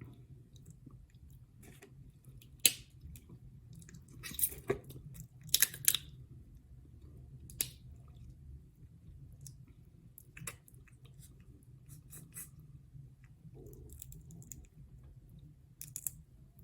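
Close-miked eating of crab legs and shrimp: wet chewing with sharp cracks and clicks at irregular intervals, the loudest a few seconds in. A steady low hum runs underneath.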